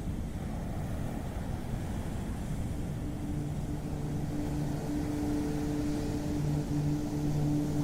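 Low rumble of ocean surf with a steady engine hum running over it; the hum grows a little louder toward the end.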